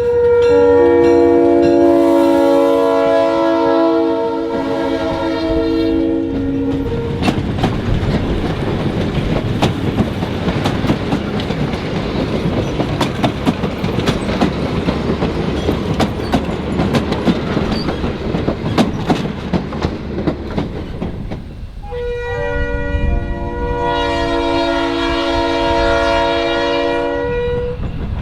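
Diesel locomotive horn sounding a chord for the first several seconds. The train then passes with a rumble and steady clicking of wheels over rail joints. The horn sounds again for about five seconds near the end.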